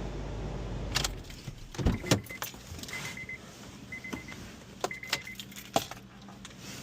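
The 2003 Honda Civic Hybrid's engine hums at idle and stops about a second in, as it is switched off. Clicks and knocks from the cabin follow, with the car's warning chime beeping four times, about once a second.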